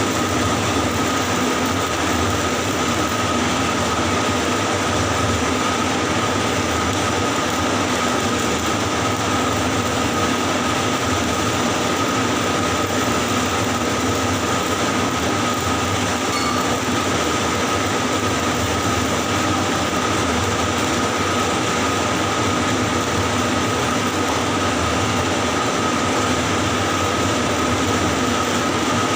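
Electric arc welding on a pipe joint in the 6G position, the arc crackling and hissing steadily without a break, with a steady high whine running underneath.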